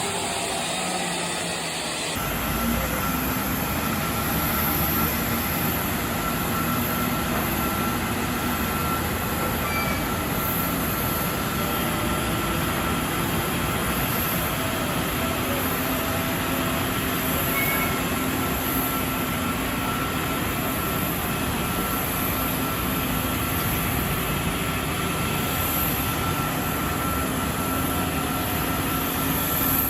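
Boeing 777-200ER's jet engines running steadily, a constant rushing roar with a steady high whine in it.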